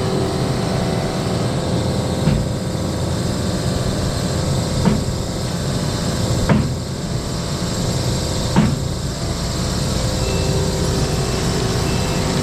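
An engine running steadily under load, with four sharp knocks roughly two seconds apart, like blows or a heavy piece being set down.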